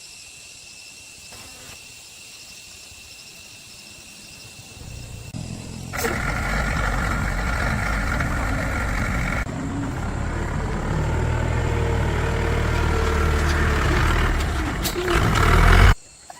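A motor starts about five seconds in and runs loudly with a low rumble, then cuts off abruptly near the end.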